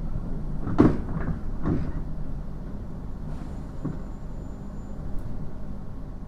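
Running sound inside a JR East 719 series electric train: a steady low hum of the running gear, with several sharp clunks and knocks from the car in the first few seconds.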